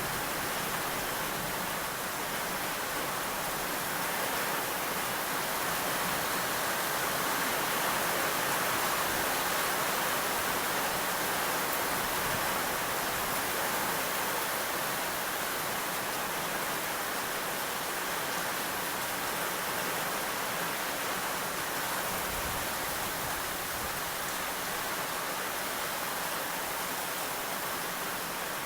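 Steady heavy rainfall, an even continuous hiss with no distinct drops or breaks, swelling slightly about a third of the way in.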